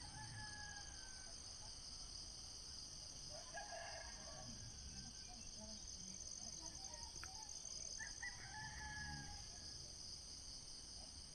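A distant rooster crows three times, each crow drawn out and falling away, over a steady high-pitched chorus of night insects.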